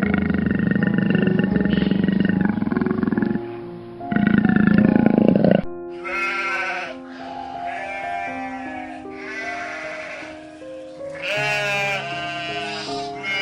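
A tiger growls in long, low rumbles for about the first five and a half seconds, loudest near the end. Then, after an abrupt cut, a sheep bleats several times with a wavering voice, over soft background music.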